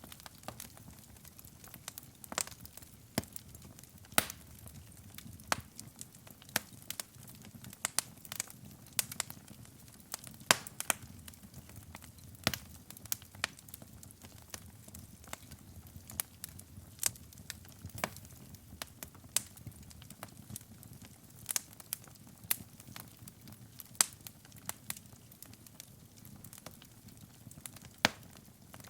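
Wood fire burning in a fireplace: irregular sharp crackles and pops, several a second, over a low, soft rush of flame.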